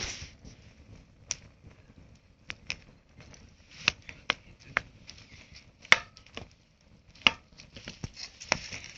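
Campfire crackling: burning wood giving off irregular sharp pops and snaps, with a soft hiss between them.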